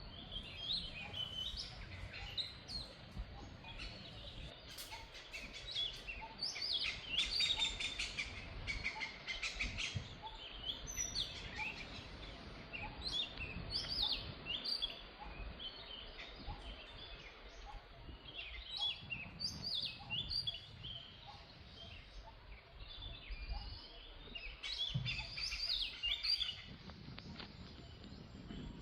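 Birds chirping and calling over and over in short notes, busiest about a quarter of the way in and again near the end, over a low steady outdoor rumble.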